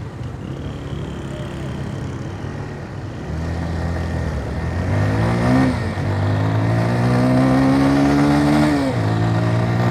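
Motorcycle engine accelerating, its pitch rising and dropping twice as it shifts up through the gears, once a little over halfway through and again near the end, getting louder overall.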